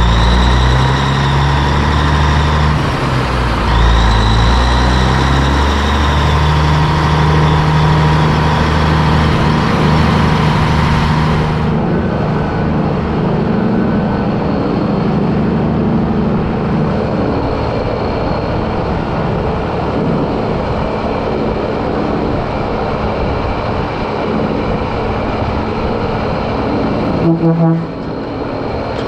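Heavy diesel engine running, its pitch stepping up and down several times. A steady whine goes with it and stops suddenly about twelve seconds in, and a brief rattle comes near the end.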